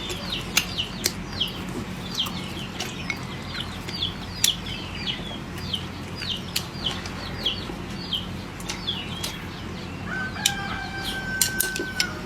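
Chickens calling: a steady run of short, high, falling peeps, with a long held call near the end. Sharp clicks are scattered through it over a steady low hum.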